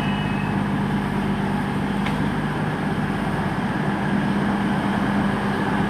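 Class 220 Voyager diesel multiple unit's underfloor diesel engines idling, a steady low hum.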